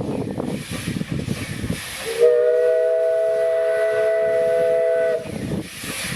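Steam locomotive whistle blown once for about three seconds, several notes sounding together, over the rumble of the train running.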